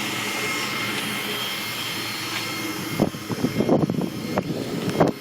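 Converted CJ5's 5.3-litre V8 idling smoothly through its new exhaust. From about three seconds in, irregular thumps break up the steady sound.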